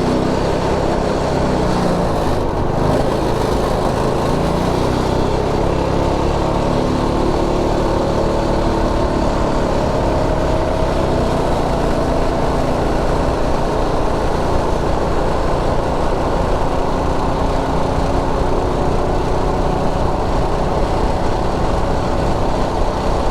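Predator 212 Ghost small single-cylinder engine held near wide-open throttle on a top-speed run, a steady drone whose pitch creeps slowly upward, heard from inside a full-face helmet.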